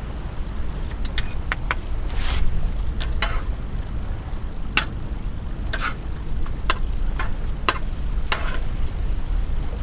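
Strong wind buffeting the microphone as a steady low rumble, with scattered light clicks and brief rustles through it.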